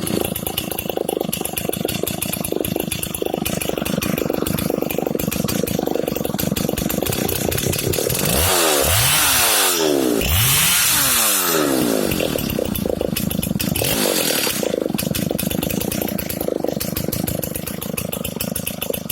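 Solo 620 VA AV vintage two-stroke chainsaw idling with a fast, even beat. About halfway through it is revved up twice in quick succession, each time rising in pitch and falling back, with a shorter burst a few seconds later before it settles back to idle.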